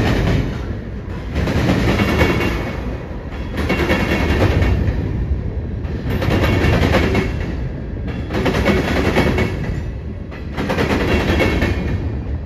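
Freight cars of a BNSF manifest train rolling past, their steel wheels clattering over a rail diamond crossing in loud pulses about every two seconds as each pair of trucks passes, over a steady rumble.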